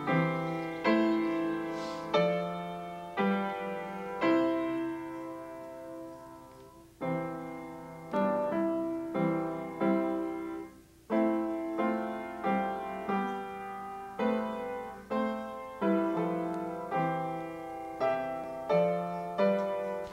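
Solo piano music: a slow run of struck chords, each dying away before the next, with a short pause twice and an abrupt stop at the end.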